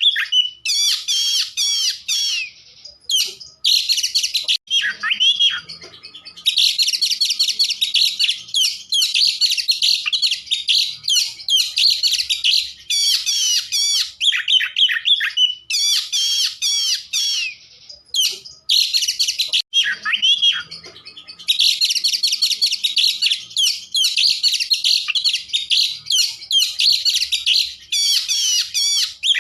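Oriental magpie-robin (kacer) in full song: long runs of rapid, varied high whistles and trills, broken by two short pauses.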